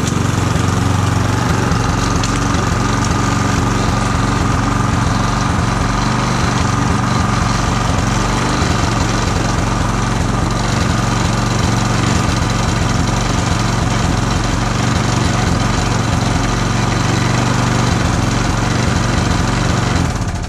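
Mountfield Emblem rotary lawn mower's Briggs & Stratton petrol engine running steadily at full throttle during a test cut of grass, then cutting out and running down at the very end.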